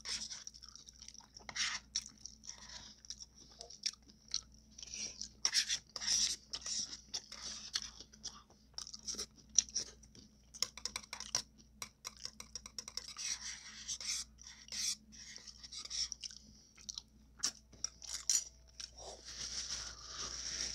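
Close-miked chewing of tacos: irregular crunching with many short, crackly clicks.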